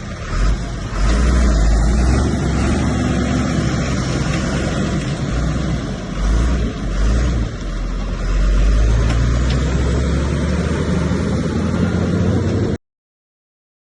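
Heavy diesel engine of earth-moving machinery running hard, its low rumble swelling and easing several times as the load changes. The sound cuts off abruptly near the end.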